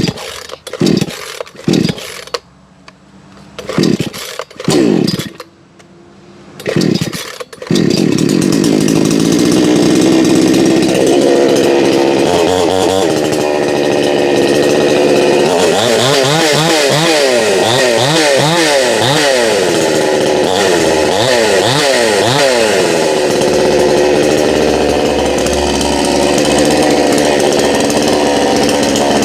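Two-stroke chainsaw being started: several short bursts as the starter cord is pulled, then it catches about seven or eight seconds in and runs steadily, revved up and down repeatedly around the middle as the machine is tested.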